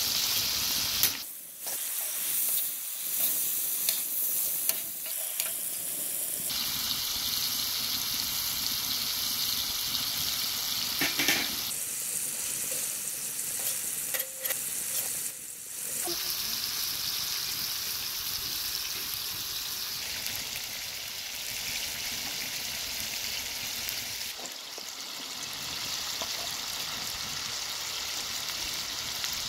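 Food frying and sizzling in a cooking pot, a steady high hiss, with a few scrapes and clinks of a stirring utensil. The sizzle jumps in level and tone abruptly several times.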